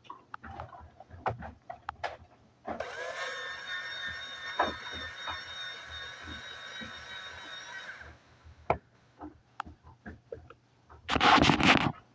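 Electronic sound effect from a toy garbage truck's small speaker, a buzzy tone with a slight warble that plays for about five seconds and then stops, amid clicks and knocks of the plastic toy being handled. A short loud rushing burst comes near the end.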